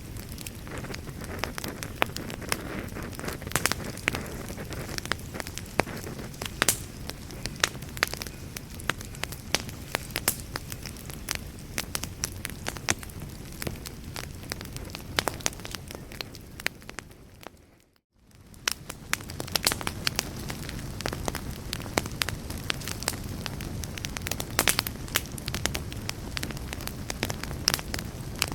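Wood fire in a fireplace crackling, with many sharp, irregular pops over a soft steady hiss. About two-thirds of the way through, the sound briefly fades out to silence and comes back.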